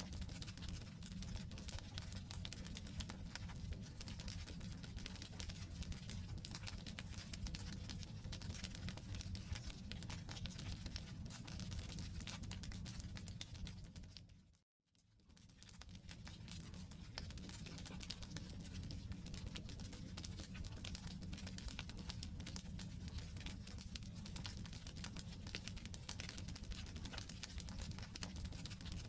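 Campfire of burning firewood crackling steadily, a dense run of small pops and snaps over a low rumble. About halfway through the sound fades briefly to silence and fades back in.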